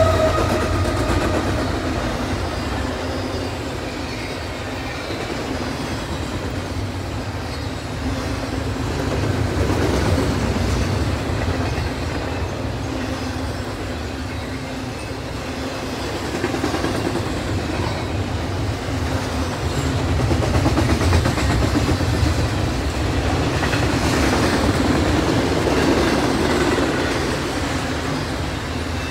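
Double-stack intermodal well cars of a freight train rolling past: a continuous rumble and clatter of steel wheels on the rails, swelling louder about a third of the way in and again through the last third.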